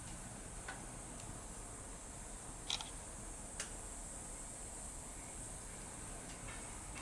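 Wood campfire crackling with a few scattered sharp pops, the loudest a little under three seconds in, over a steady high-pitched insect chorus.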